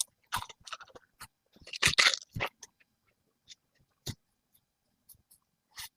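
Collard green leaves being snapped off the stalk and handled: irregular crisp crunches and rustles, loudest about two seconds in, then a few single sharp snaps.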